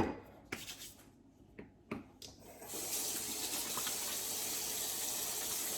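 Kitchen sink tap turning on and running in a steady stream into the sink, after a few light knocks and clicks.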